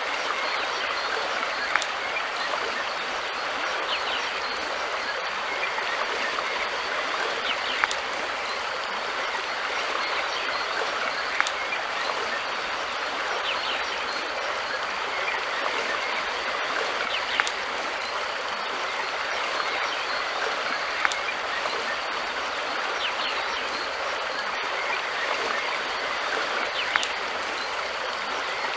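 River water flowing in a steady rush, with a sharp click every few seconds.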